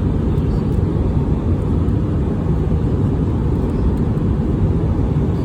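Airliner cabin noise: a steady low rumble of engines and rushing airflow, with no distinct knocks or jolts standing out.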